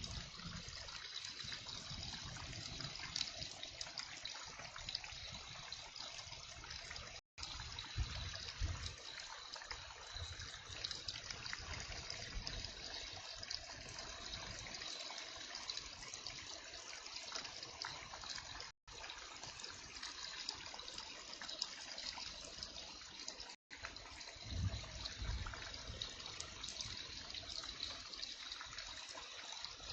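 Heavy rain falling steadily, with water running and trickling. The sound cuts out completely for an instant three times.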